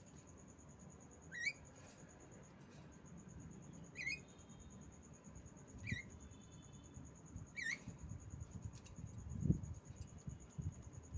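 Female Javan myna giving short, upward-curving chirps, one every two seconds or so, four in all, over a steady high whine. Several low thumps come in the second half, the loudest about nine and a half seconds in.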